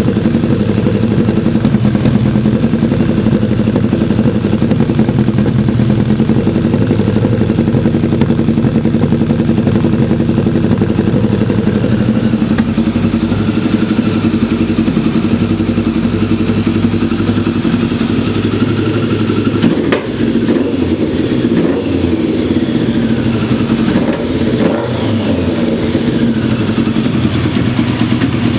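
Kawasaki ZZR1100 motorcycle's inline-four engine running steadily. About two-thirds of the way in there is a click, then the engine speed rises and falls a few times.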